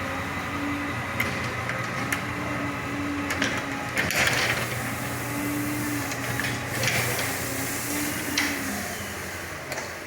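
Garage door opener motor running, driving its trolley along the rail to clip back in to the door. A steady whir with a low tone that comes and goes, and a few sharp clicks and rattles.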